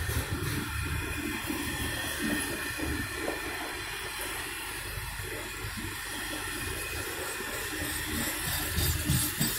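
Steel wheels of double-stack intermodal well cars rolling past on the rails: a steady low rumble with a hissing wheel-on-rail noise and a few faint clicks.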